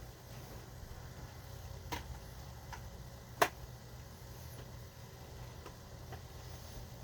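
Kitchenware being handled: scattered light clicks and knocks, with one sharp, loud click about three and a half seconds in, over a steady low hum.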